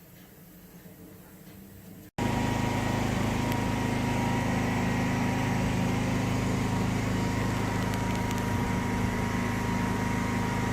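Faint background for about two seconds, then an abrupt edit into a loud, steady machine drone: a constant low hum with a thin steady whine above it, unchanging until it cuts off sharply at the end.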